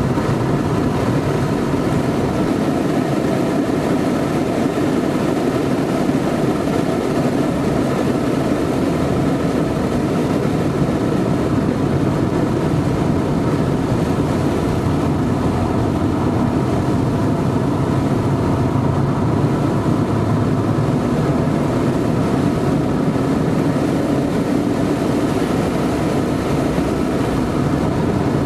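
Porsche 928's V8 engine heard from inside the cabin, running hard at track speed, its pitch rising and falling gently through the corners, over steady road and wind noise.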